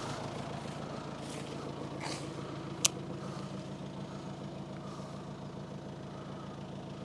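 A motor vehicle's engine idling steadily, easing off slightly in level, with one sharp click about three seconds in.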